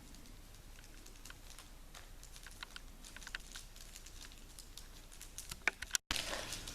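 Faint, irregular light taps and scratches of a pencil tracing a flower outline onto tracing paper, with a few sharper ticks near the end.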